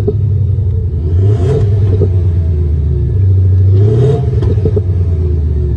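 Thor active exhaust speakers on a Ford Mustang EcoBoost 2.3L playing a synthesized Ferrari 488 GTB engine sound, revved up twice, about a second and a half in and again near four seconds.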